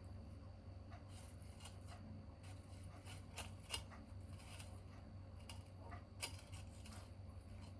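Small tabletop wood fire crackling faintly: scattered sharp pops and ticks, two louder pops near the middle and later on, over a steady low hum.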